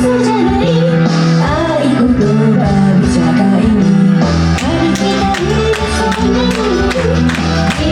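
Live J-pop song: a woman singing over a backing track with bass and drums. The drum beat gets stronger about four and a half seconds in.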